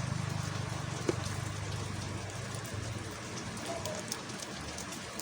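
Steady rain-like hiss with a low hum that fades out over the first three seconds, a sharp click about a second in, and a few faint ticks.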